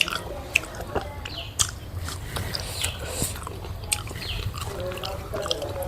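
Close-miked eating: chewing, lip smacking and wet mouth clicks, with a scattering of short sharp clicks.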